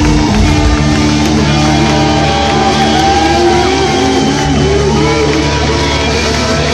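Loud live rock music from a band, led by amplified guitar, with held notes and gliding higher lines over a steady low end.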